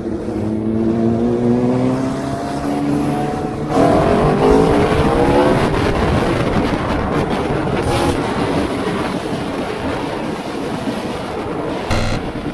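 Aprilia RSV4 1100 Factory's V4 engine accelerating hard, its note climbing through one gear and, after a quick upshift about four seconds in, rising again. Rushing wind noise then takes over as speed builds.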